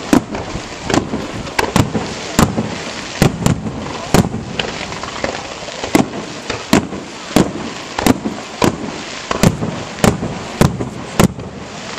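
Fireworks display: a fast, uneven series of sharp bangs from bursting aerial shells, roughly two a second, over a continuous noisy background.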